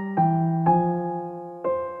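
Soft background music on a piano-like keyboard. Gentle notes or chords are struck about twice a second, and each fades away.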